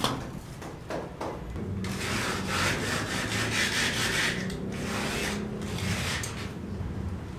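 Quick, rasping back-and-forth strokes of sawing on wood, running from about two seconds in to past four seconds, then a shorter burst near six seconds, over a faint low hum.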